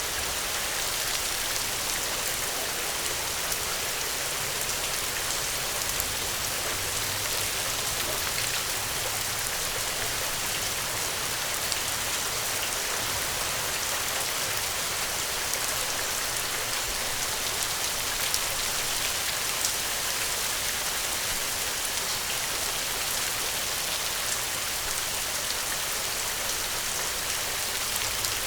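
Steady rainfall with the patter of many drops striking a surface, with a faint low hum underneath.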